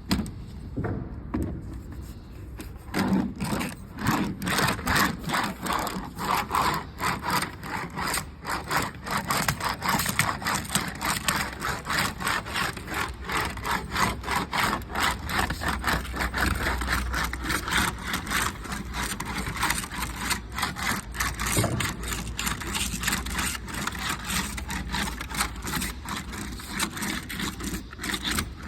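Roll former running along a titanium-zinc sheet, rolling up its standing edge: a fast, continuous rattling clatter that sets in about three seconds in and keeps going.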